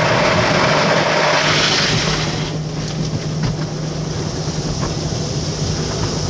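Automatic car wash working on the car, heard from inside the cabin: a dense rush of water spray that eases about two and a half seconds in, over a steady low hum.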